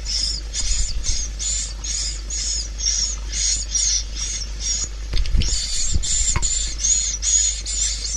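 Swiftlet calls, a swiftlet lure recording of the kind played from tweeters to draw swiftlets to a nesting house: an unbroken run of high twittering chirps, about three to four a second. Under them runs a low steady hum, with a couple of soft low thumps about five to six seconds in.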